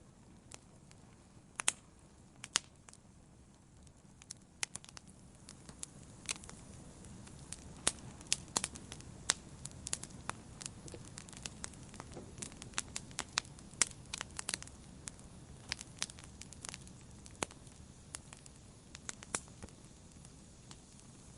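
Wood campfire burning, with irregular sharp crackles and pops over a low steady rush of flame. The pops come thickest in the middle of the stretch.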